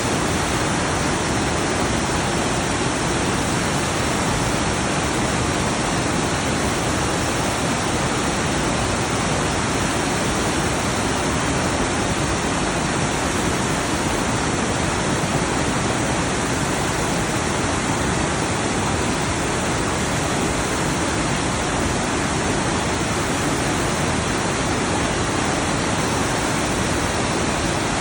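Mountain stream rushing loudly over rocks, a steady, unbroken roar of water close to the microphone.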